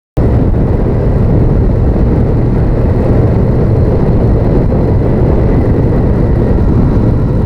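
Honda VTR1000F motorcycle being ridden: steady engine running at a constant pace under a loud, even rush of wind noise. It cuts in abruptly just after the start.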